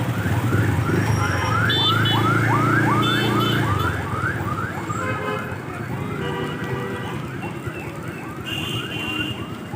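An electronic siren repeating a short rising sweep about two and a half times a second, over a low engine rumble that drops away about four seconds in.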